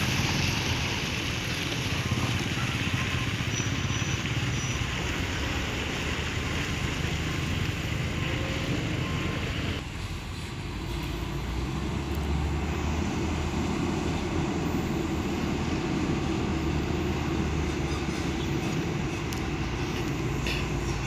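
A heavy vehicle's engine running steadily on the road, with tyre and road noise. About ten seconds in, the hiss over the top drops away and the engine hum is left.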